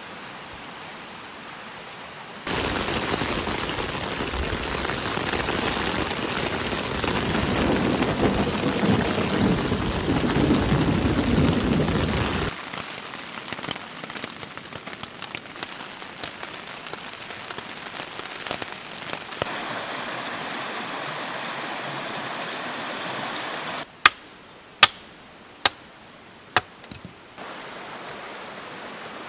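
Rain falling in a forest, loud and steady at first with a low rumble, likely thunder, building under it, then cutting to lighter rain with scattered drips. Near the end, four sharp cracks in a quiet stretch.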